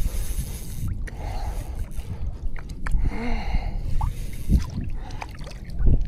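Water sloshing and a steady low rumble of handling noise around a belly boat float tube on the sea, with scattered small clicks and a brief pitched hum a little after three seconds.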